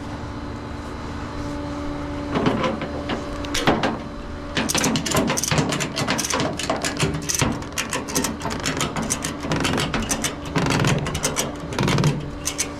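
Truck engine idling with a steady hum, overlaid from about four seconds in by a rapid, irregular run of metallic clicks and clanks, with a couple of heavier knocks near the end.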